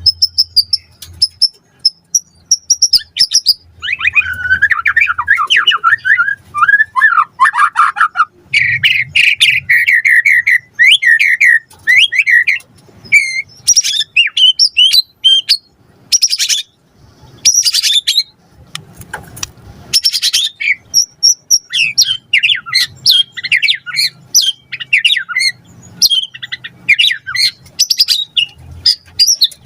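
White-rumped shama (murai batu) singing a long, varied song. It opens with a high held whistle, goes into fast rattling trills, then sharp clicking notes, and then quick changing phrases.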